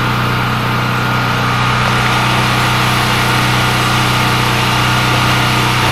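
A 7,500-watt portable generator's engine running steadily under load, a constant unchanging hum.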